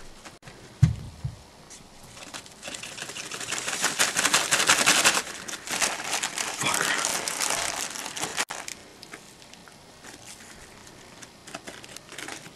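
Plastic instant-ramen packet crinkling as it is handled and shaken, for about six seconds starting two seconds in, loudest in the middle. A dull thump comes about a second in.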